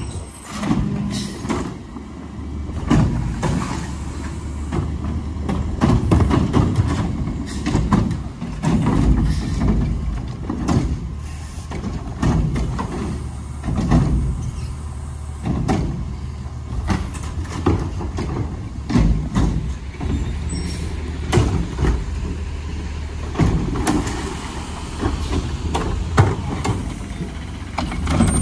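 Garbage truck's diesel engine running steadily, with repeated knocks and clanks throughout.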